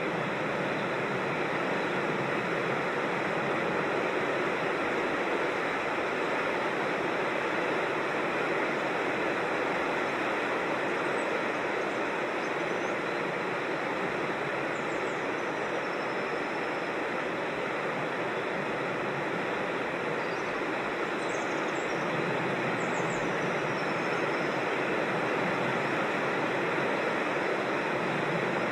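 Steady rush of a creek cascading over rocks. A small bird chirps faintly a few times, high and brief, in the middle and again later.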